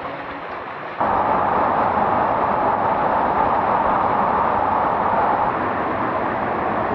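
Heavy rain falling, a steady rushing hiss that gets suddenly louder about a second in.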